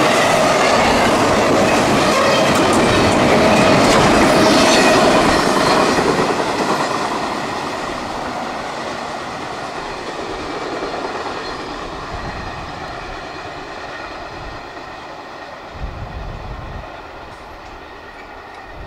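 CSX double-stack intermodal freight train's cars rolling past on steel wheels, loud at first and then fading away steadily from about five seconds in as the train goes by.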